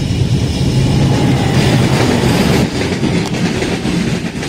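A train passing close by at speed: loud rumble and clatter of wheels on the track, with a low drone under it that eases a little after about two and a half seconds.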